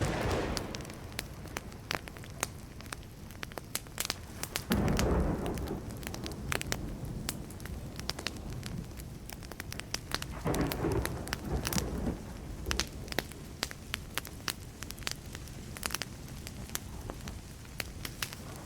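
Burning wood fire crackling with many sharp pops, while distant thunder rumbles swell three times: at the start, about five seconds in, and about ten seconds in.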